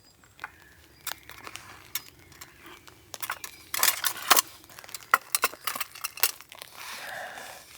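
Handling of food and its packaging during camp food prep: irregular crinkling with scattered light taps and clicks.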